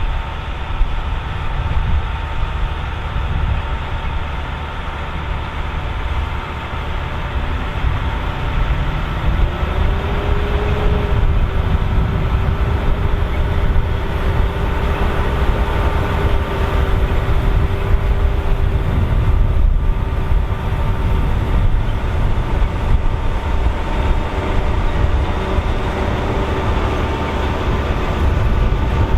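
John Deere 7230R tractor running steadily under load while pulling a working AVR Spirit 9200 potato harvester, with the harvester's steady mechanical rattle. A whining tone rises about nine seconds in and then holds steady.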